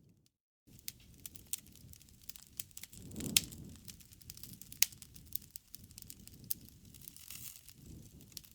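Campfire crackling: scattered sharp pops over a soft low rustle of burning wood, with louder pops about three and a half and five seconds in. The sound cuts out completely for about half a second near the start.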